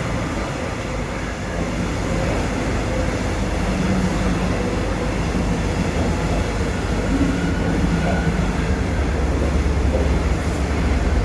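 Passenger train at a station platform: a steady mechanical rumble, with the low engine rumble growing heavier near the end.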